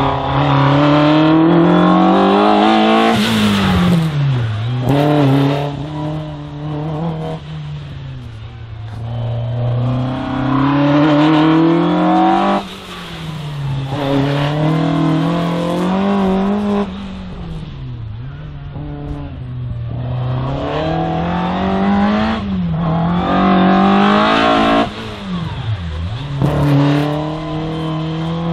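Four-cylinder engine of a VW Golf Mk1 race car revving hard through a cone slalom. The pitch climbs on each burst of acceleration and drops off sharply about six times as the driver lifts for the turns, with a few sudden dips at gear changes.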